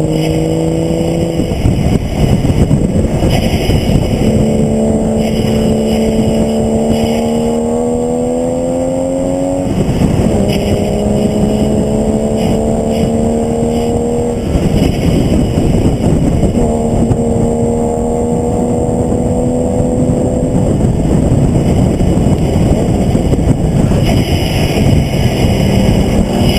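Engine of a vehicle lapping a race track, heard on board with heavy wind and road noise. The engine note climbs steadily under acceleration and drops sharply at an upshift about ten seconds in. It falls away and comes back several more times as the driver lifts and accelerates through the corners.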